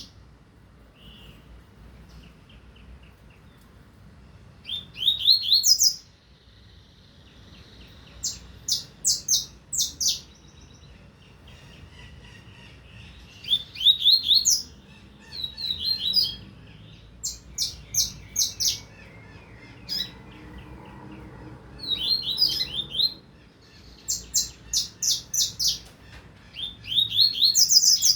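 Double-collared seedeater (coleiro) singing in repeated phrases of quick, high, sharp sweeping notes, about eight song bursts with short pauses between them.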